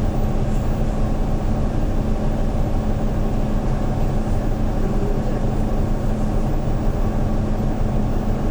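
The CNG engine of a 2013 Hyundai New Super Aero City city bus running steadily, a constant low drone with an even hum and no revving.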